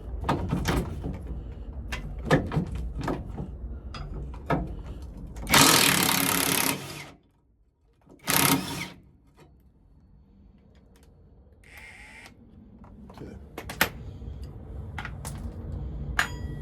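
Impact wrench zipping out a driveshaft center bearing bolt in two loud bursts, about five and a half and eight seconds in, among clicks and knocks of the tool and parts.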